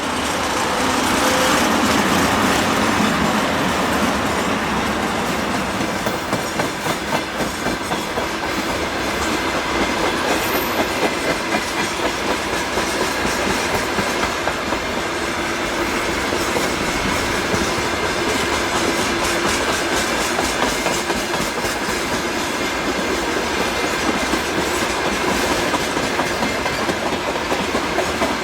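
Freight train wagons rolling past close by, with their wheels clattering over the rail joints in a steady, rapid clickety-clack.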